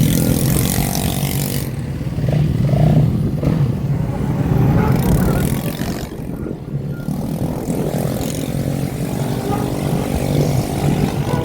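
Motorbike and dirt bike engines of a large group running and revving together, their pitch rising and falling, with several bikes revving up near the end.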